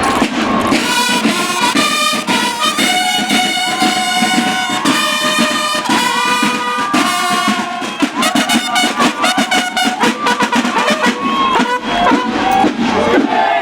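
Military brass band playing, with long held brass notes in the middle and shorter notes near the end, over crowd noise.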